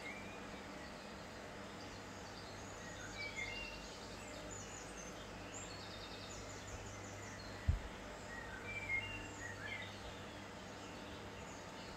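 Birds chirping now and then in the background, short twittering calls and quick trills over a steady low hum, with a single low thump about two-thirds of the way through.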